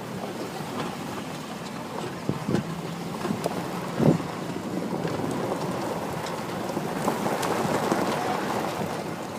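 Wind rushing over the microphone, with a few scattered dull knocks.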